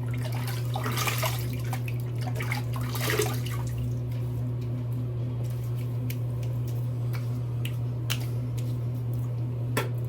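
Water splashing as a face is rinsed with handfuls of water at a sink, for the first three seconds or so, followed by a few scattered light clicks and taps. A steady low hum runs underneath.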